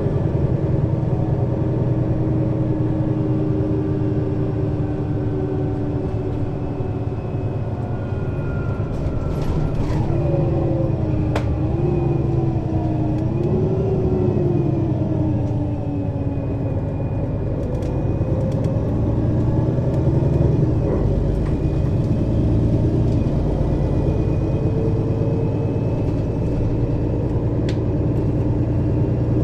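Mercedes-Benz Citaro city bus driving, its diesel engine running steadily under load through the ZF Ecomat automatic gearbox. Around the middle a whining tone wavers and shifts in pitch as the engine speed changes.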